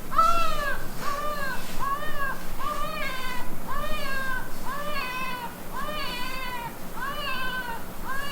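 Recorded infant crying played from a Baby Talker V2 reborn-doll sound box's speaker: a steady run of short wailing cries, each rising and falling in pitch, a little more than one a second, as the app signals that the baby needs care.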